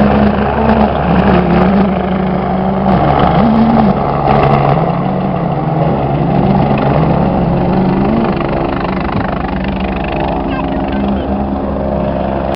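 Motor noise from vehicles at a rally: a steady low rumble under an engine pitch that keeps rising and falling, easing slightly in level in the second half.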